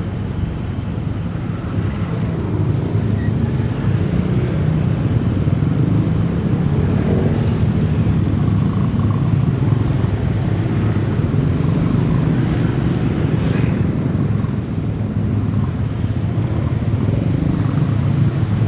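Motorcycle engine running steadily while riding, mixed with road and traffic noise: a continuous low rumble.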